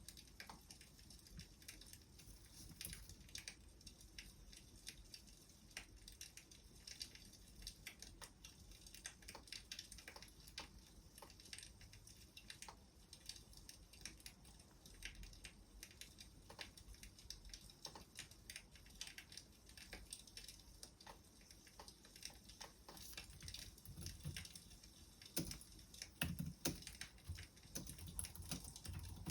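Faint wood fire crackling: a steady scatter of small sharp pops and snaps, with a few louder knocks a little before the end.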